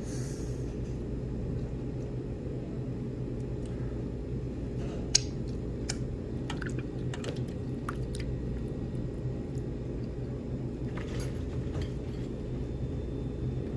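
Small clinks and clicks of dishes and utensils at a meal table over a steady low room hum, with one sharper click about five seconds in.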